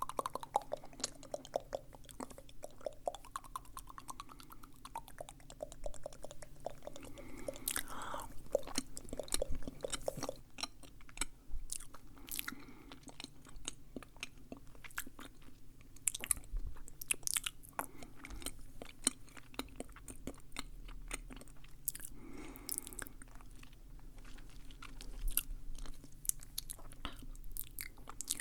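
Close-miked ASMR mouth sounds: a steady run of wet clicks, smacks and nibbling chewing noises made with the lips and tongue.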